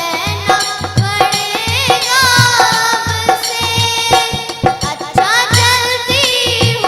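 Indian folk song performed live: a girl singing a wavering melody over a steady hand-drum beat of about two strokes a second.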